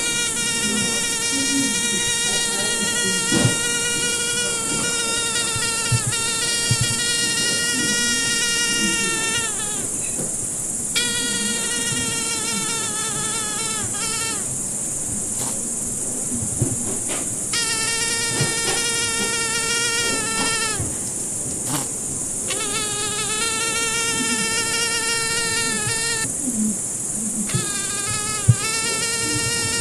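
Mosquito whine: a thin, high buzz of beating wings that keeps dropping slightly in pitch and cutting out for a second or two several times before coming back, over a steady high hiss.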